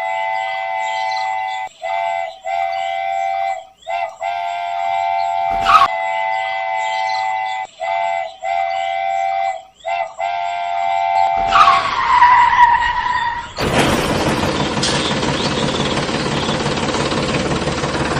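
Multi-tone train horn sounding in about eight blasts of uneven length, with a sharp click about six seconds in. Near the end the horn gives way to a falling tone, then a steady rushing noise.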